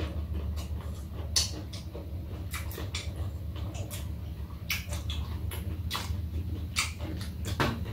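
Two people chewing and smacking their lips as they eat rice-less kimbap: a string of short, irregular mouth clicks over a steady low hum.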